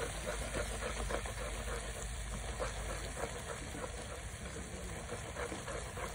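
Aloo pyaz curry, tomatoes and potatoes, sizzling and bubbling in a clay pot over a wood fire while a wooden slotted spatula stirs and scrapes through it: a steady hiss full of small crackles.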